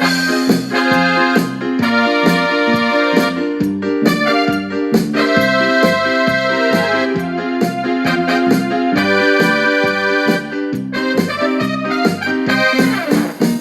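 Casio WK-6500 keyboard playing back a sequenced song on its built-in voices: held keyboard chords over a bass line that steps from note to note in a steady rhythm.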